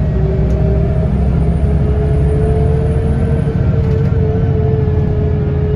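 Scania L94UB bus under way: a steady low engine and driveline rumble, with a whine that rises slowly in pitch as the bus gathers speed.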